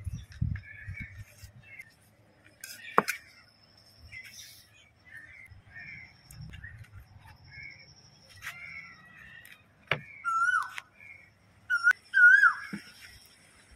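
Birds calling: soft short chirps, then from about ten seconds in a louder whistled call repeated several times, each note bending downward. A few sharp clicks sound in between.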